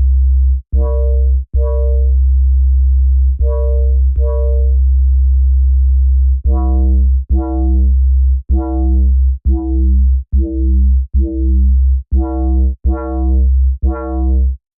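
Dub bass patch on Arturia's Pigments software synth playing a bass line. A deep, sustained low bass sits under short metallic, bell-like note attacks from phase modulation, each fading quickly. The notes are longer at first, then shorter and more rapid from about halfway through.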